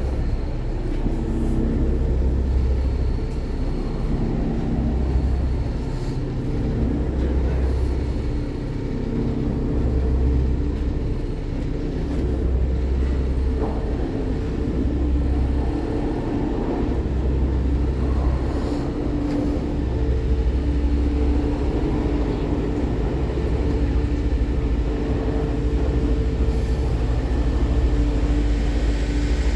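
Steady low rumble of a large vehicle under way, its deepest part swelling and fading about every two seconds, with a steady hum above it.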